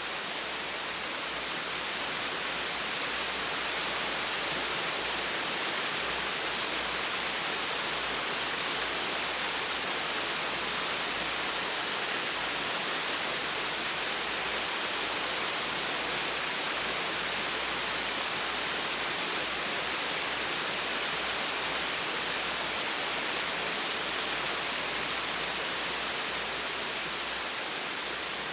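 Small waterfall splashing steadily, an even rushing of falling water with no change.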